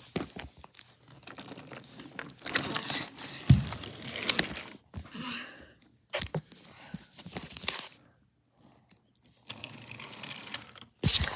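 Handling noise from toys being moved about: irregular rustling and crinkling with small clicks and knocks. It goes almost quiet about eight seconds in, and a few sharp clicks come near the end.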